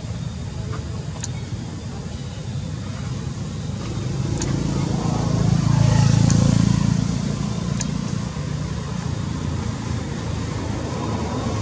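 Low engine rumble of a passing motor vehicle, building to its loudest about six seconds in and then fading, with short, sharp high ticks every second or two.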